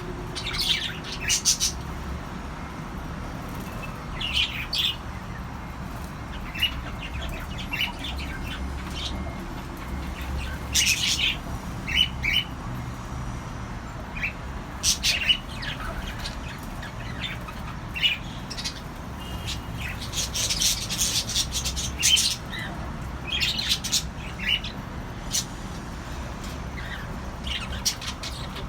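Cockatiels chirping and squawking in short, irregular calls, one every second or two, over a steady low background hum.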